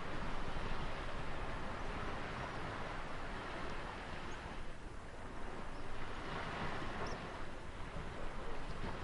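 Ocean surf: waves washing in as a steady rushing noise that swells and eases, with a lull about five seconds in.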